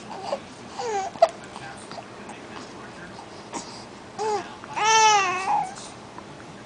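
Young birds calling: a short falling call about a second in, then a short call and a longer, loudest drawn-out call around four to five seconds in.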